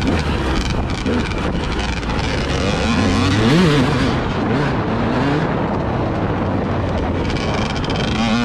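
Vehicle engine revving up and falling back several times, under loud wind noise on the microphone.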